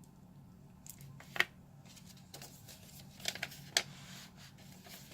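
Paper pages and cards of a handmade junk journal being turned and handled: soft rustling broken by several sharp crinkles and taps, the loudest about a second and a half in.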